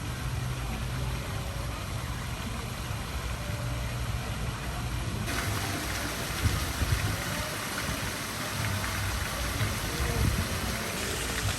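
City street ambience: steady traffic noise with a low engine rumble. The noise turns brighter and hissier about five seconds in.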